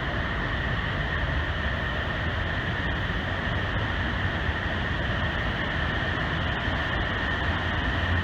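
Steady rushing roar of a large waterfall, heavy water pouring over the falls, loud and unbroken.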